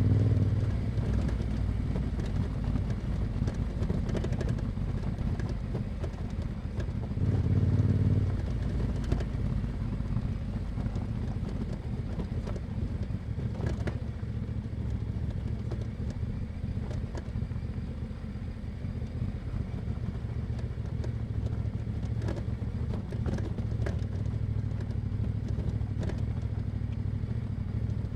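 Yamaha Ténéré 700's 689 cc parallel-twin through an Akrapovic exhaust, heard from the rider's position: it opens up on the throttle at the start and again briefly about seven seconds in, then runs at steady, lighter throttle. Scattered short clicks and knocks sound over the engine throughout.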